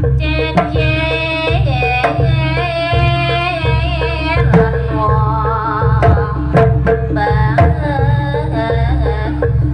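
Jaranan music: a driving drum rhythm under a short repeating pitched-percussion pattern, with a high wavering melody line over the top that breaks off briefly about halfway through and then resumes.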